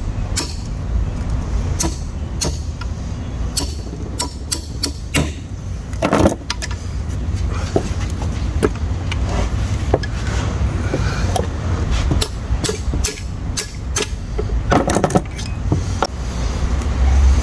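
Irregular metallic clinks and taps of hand tools and small steel parts handled on the case of a three-speed manual transmission being taken apart, some ringing briefly, over a steady low hum.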